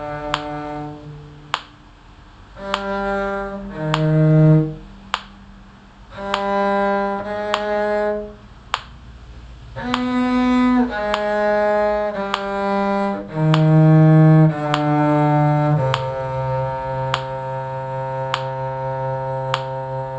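Two parts on bowed string instruments playing slow, sustained notes together over a metronome clicking about once every 1.2 seconds. Past the middle, the music settles onto a long held chord.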